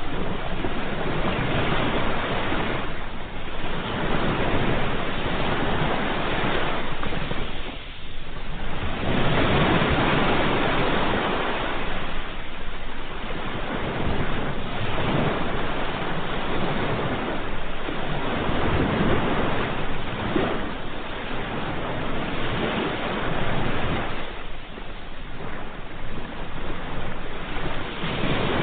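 Ocean surf: waves washing in continuously, swelling and ebbing every few seconds.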